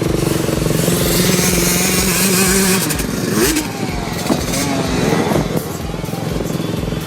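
Motocross bike engines running: a steady drone for the first few seconds, then the throttle blipped up and down several times in quick rising and falling revs.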